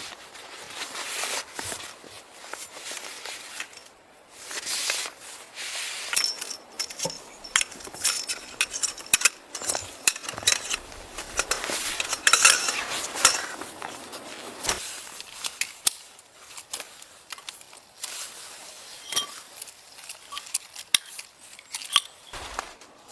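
Irregular clicks, clinks and crackles, the way things sound when they are handled, coming thickest around the middle.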